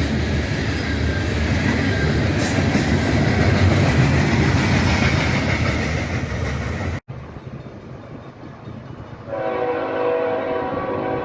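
A train passing close by, a steady rumble of wheels on the rails, which cuts off suddenly about seven seconds in. About two seconds later a locomotive air horn starts blowing one long, steady blast.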